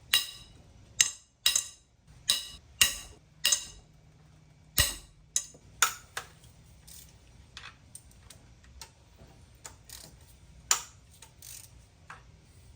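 Sharp metallic clicks and clinks of hand tools working on a Mercedes E55 AMG V8 cylinder head as it is being unbolted. A string of loud ones comes over the first six seconds, then fainter, scattered ones.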